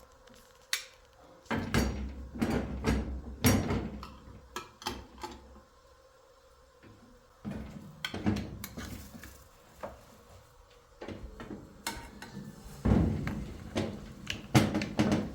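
Irregular knocks and clatter of objects being handled, in three bursts with quieter gaps between.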